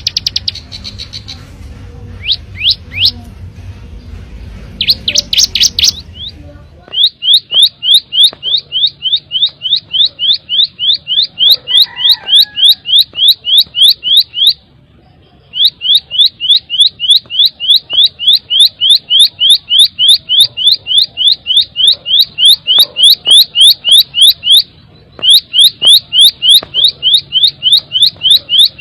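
Ciblek sawah prinia singing a long, fast, even series of short rising chirps, about four a second. The series breaks off twice for about a second and resumes. A low hum lies under the first few seconds with looser, scattered notes.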